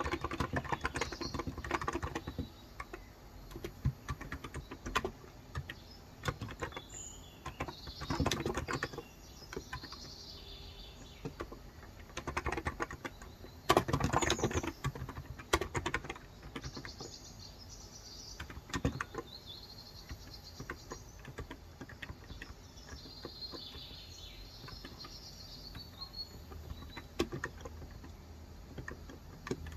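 Typing on a COX Endeavor electrostatic capacitive tenkeyless keyboard with light 35 g keys: irregular runs of soft key clicks with short pauses, busier in the first half. Birds chirp in the background, mostly in the second half.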